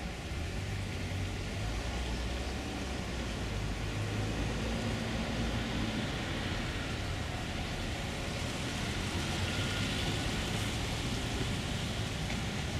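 Steady engine hum and road noise of a moving vehicle.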